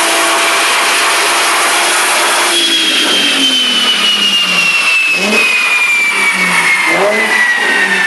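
Nissan 350Z's V6 engine and exhaust running: a steady drone for the first couple of seconds, then the pitch falls slowly as the revs drop, with two brief upward blips near the end.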